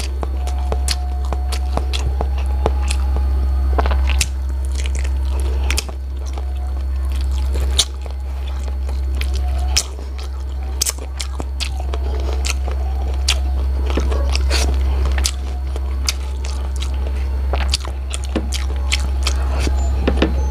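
A person biting and chewing braised chicken feet close to the microphone, with many sharp wet mouth clicks throughout, over a steady low hum.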